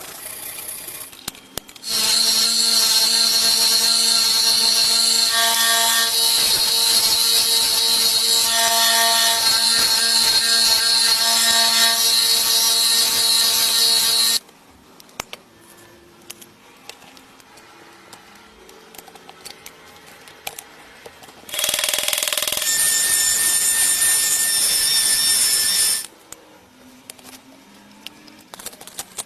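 A power tool running with a steady whine over a hiss of contact noise, as in grinding or sanding the rusty knife. It runs about twelve seconds, stops, then runs again for about four seconds. Between and after the runs there are only faint clicks.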